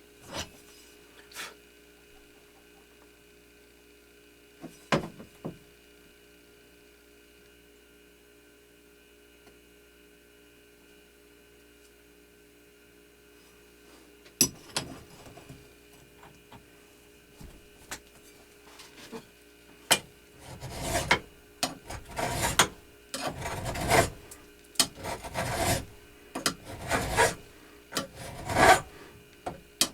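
Hand file scraping in repeated strokes across the belt grinder's platen, about a dozen strokes in the last ten seconds. A few sharp clicks and knocks come before them.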